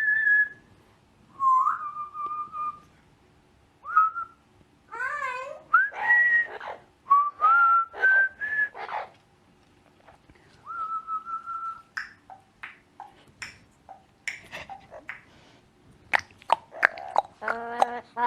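A parrot whistling a tune in short phrases of clear notes, mostly rising, broken by a couple of harsher, buzzier calls about five seconds in. In the second half the whistling gives way to a run of sharp clicks and taps.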